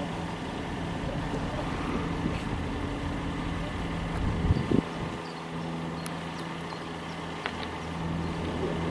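Range Rover engine running low and steady as the SUV crawls over a steep off-road mound, with two sharp knocks close together about halfway through.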